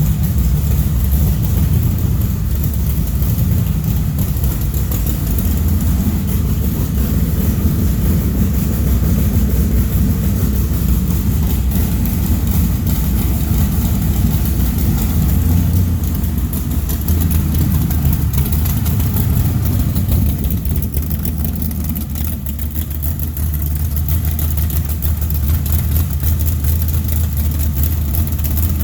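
LS3 stroker V8 in a Tatum SandDemon sand car idling steadily during a true cold start on a freshly flashed base tune, holding idle without stalling. The level dips slightly about twenty seconds in.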